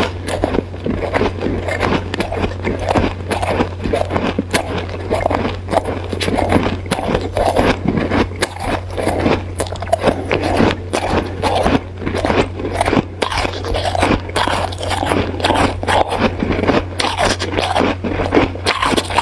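Close-miked crunching of hard, crushed ice between the teeth: a dense, irregular run of sharp cracks and crackles, several a second, over a steady low hum.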